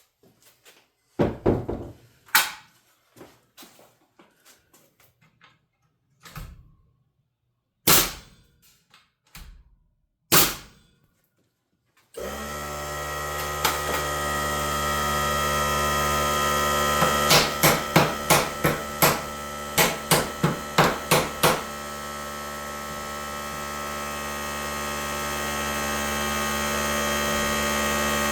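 Scattered knocks and taps, then an electric motor starts about twelve seconds in and runs steadily. A quick series of about ten knocks sounds over it for a few seconds.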